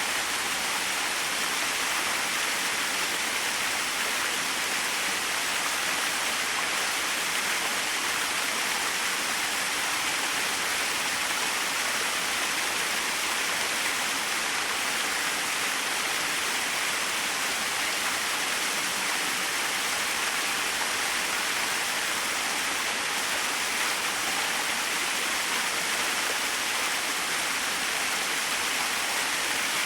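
Small waterfall: water falling and splashing in a steady, even rush with no changes.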